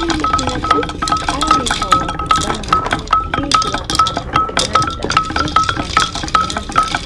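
Steady rhythmic metallic clinking, a short ringing tink about two and a half times a second, over a busy background of clattering and murmuring voices.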